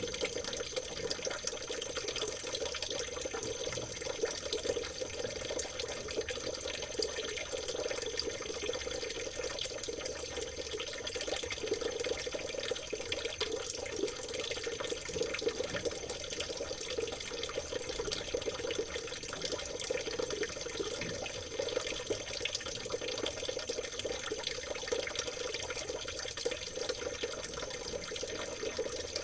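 Stream water babbling and trickling steadily, a continuous even rush with no pauses.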